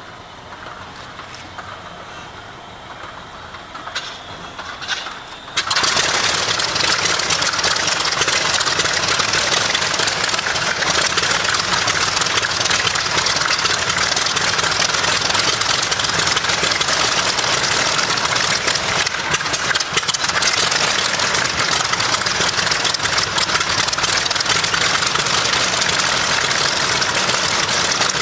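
Mitsubishi A6M Zero fighter's Nakajima Sakae 14-cylinder radial engine starting. A few clicks come first, then the engine catches suddenly about six seconds in and runs loud and steady.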